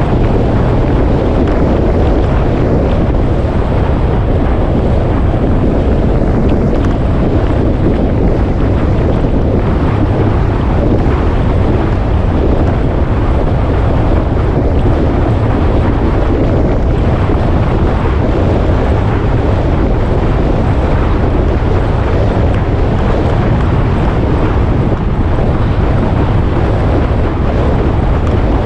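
Motorcycle under way at a steady speed: the engine running beneath heavy wind buffeting on the microphone, one loud unbroken rush with no changes in pace.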